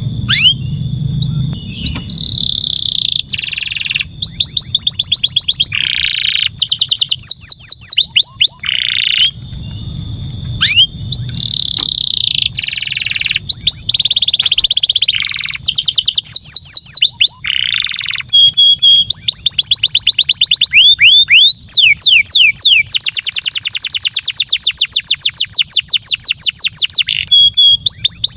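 Canary singing a long, continuous song of trills and rolls: runs of fast repeated notes, quick downward-sweeping whistles and buzzing rolled phrases, with the longest run of rapid repeated notes in the second half.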